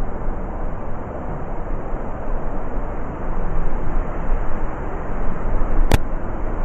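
Blizzard wind blowing hard, a steady rush that swells in gusts, with a single sharp click near the end.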